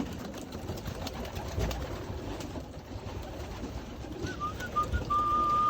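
A loft full of young racing pigeons cooing. Near the end there are a few short high chirps, then a thin held note.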